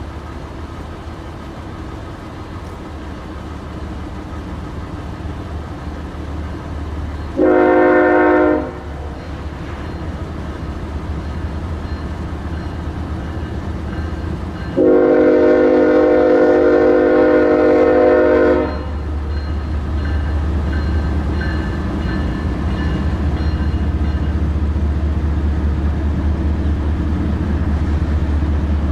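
Nathan K5HL five-chime air horn on a Norfolk Southern GE ES44AC sounding a short blast and then a long blast of about four seconds, over the low rumble of the approaching diesel locomotives, which grows louder toward the end.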